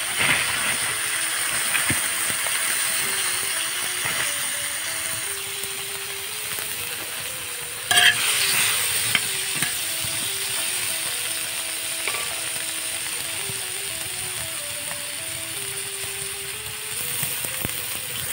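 Sliced green beans sizzling on a hot iron griddle, a steady frying hiss, with a sudden scrape and clatter as they are stirred about eight seconds in. A faint melody plays underneath.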